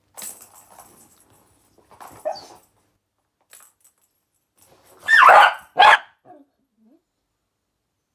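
A dog barks twice, loud and close, about five seconds in, with softer rustles and knocks before.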